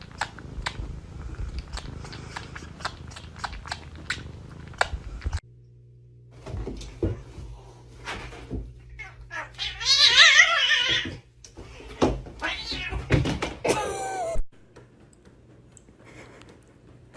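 A cat yowling: a loud, wavering drawn-out cry about ten seconds in and a shorter cry a few seconds later, after a stretch of soft, quick clicking sounds.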